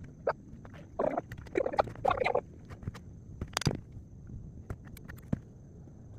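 Masonry work on stone: irregular taps, clicks and scraping, with one sharp knock about three and a half seconds in.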